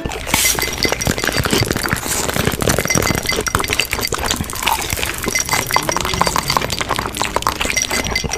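Dense, continuous clattering and clinking of small hard objects.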